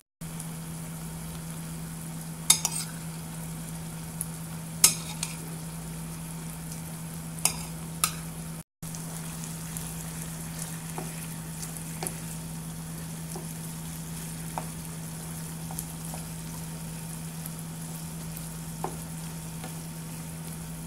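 Octopus pieces sizzling in a soy-sauce mixture in a frying pan while a wooden spatula stirs them, with a steady low hum underneath. Four sharp knocks of the spatula against the pan fall in the first half, and fainter ticks follow later.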